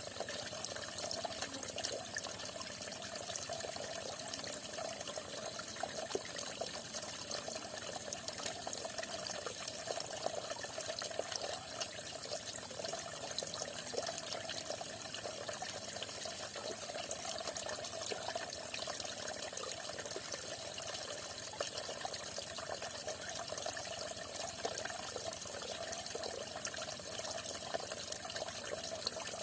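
Water falling and splashing steadily, a continuous stream of small splashes without let-up.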